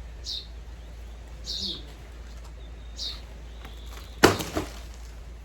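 Birds chirping with short falling chirps, then about four seconds in a single hard chopping blow into wood, followed by a few smaller knocks.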